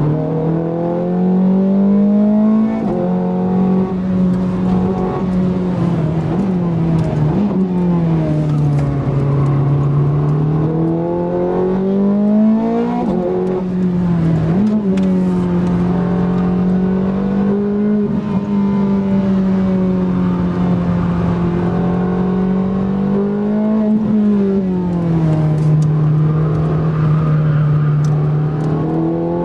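Ferrari 430 Scuderia's 4.3-litre V8, heard from inside the cabin at racing speed, its note climbing under acceleration and falling back as the car lifts off and shifts, over and over.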